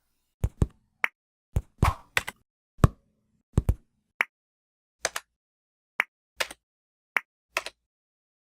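A run of about fifteen short, sharp knocks and taps at an uneven pace, some in quick pairs, with dead silence between them.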